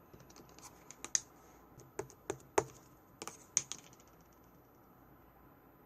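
Slime being handled and pressed by hand, giving a run of sharp clicks and small pops. The clicks stop a little before four seconds in.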